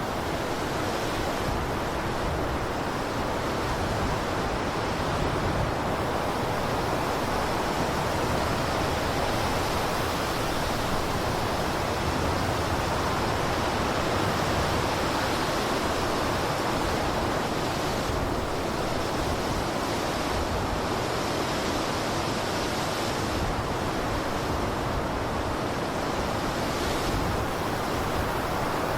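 Blizzard wind: a steady, continuous rushing hiss of arctic wind.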